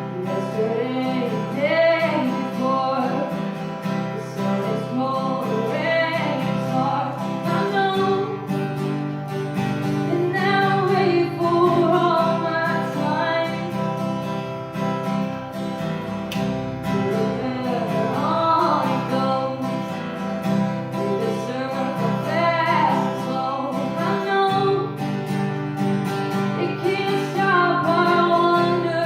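Acoustic guitar strumming chords with a female voice singing the melody over it in phrases of a couple of seconds.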